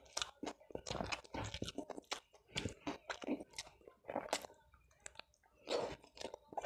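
A person chewing fried food with the mouth close to the microphone: many irregular crisp crunches and bites.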